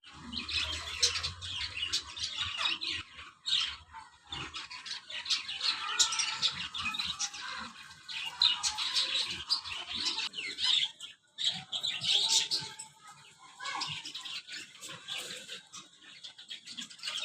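A colony of many kept birds chirping and squawking at once, short high calls overlapping without a break.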